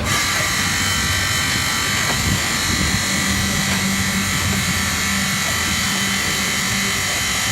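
Truck-mounted concrete mixer pump running steadily: a dense mechanical hum with a constant high whine over it.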